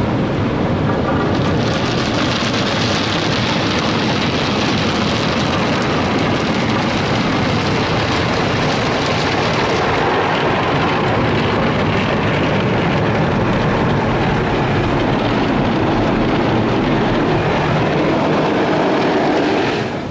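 Tunnel car wash heard from inside the truck's cab: a loud, steady rush of water spray and spinning wash brushes working over the truck body. The hiss grows stronger about a second and a half in.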